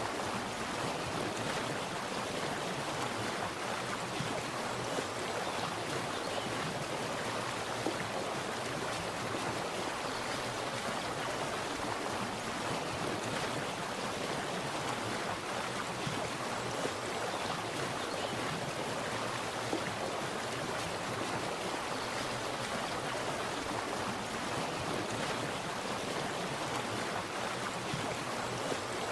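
Water splashing and rushing steadily, a continuous even wash of sound with small flickering splashes and no letting up.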